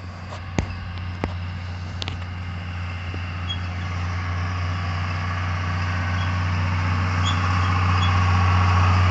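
Tractor engine running with a steady low drone, growing steadily louder as it approaches along the road. A few sharp clicks in the first couple of seconds.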